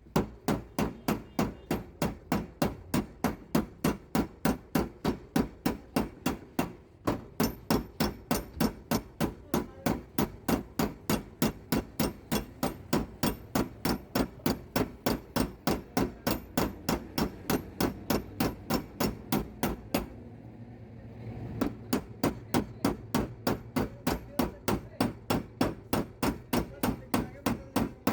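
Hammer blows on the steel door panel of a Suzuki Swift during dry denting (dent repair), at a steady rhythm of about three sharp knocks a second. There is one short pause about two-thirds of the way through.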